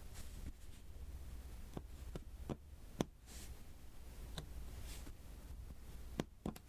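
Diamond-painting pen tapping small resin drills onto the sticky adhesive canvas: soft, irregular clicks a second or so apart, over a steady low hum.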